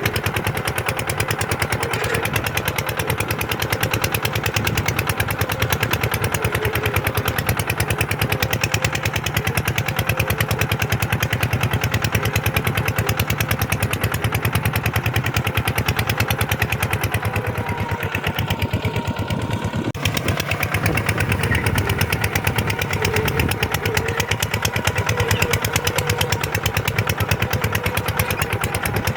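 Kubota single-cylinder diesel engine of a tractor running steadily with a fast, even knock, pulling a plough through sandy ground; it eases briefly about two-thirds of the way through.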